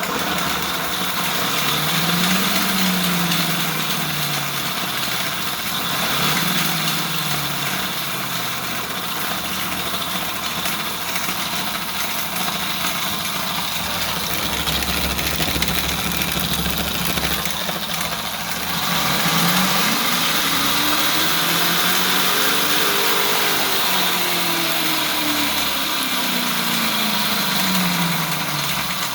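Electric dirt bike's motor and chain drive running, under a steady mechanical rattle. A whine rises and falls twice briefly in the first few seconds, then climbs and falls back more slowly near the end as the throttle is opened and closed.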